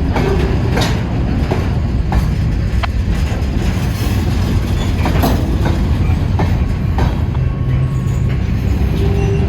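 Norfolk Southern freight cars rolling past: a steady low rumble with irregular sharp clacks of wheels crossing rail joints and a few brief faint wheel squeals.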